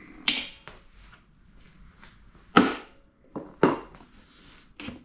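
Four sharp knocks and clanks of hand tools and metal parts being handled during disassembly of a pancake air compressor, the loudest about halfway through.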